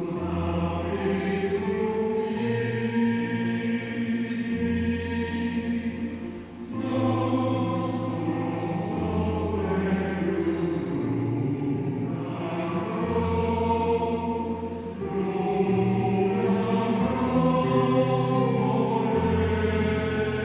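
Choir singing slow, held chords that change every couple of seconds, with a brief break about six and a half seconds in.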